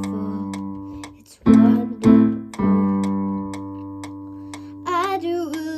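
Song intro on acoustic guitar: chords struck a few times and left to ring out, with a brief wordless sung phrase near the end.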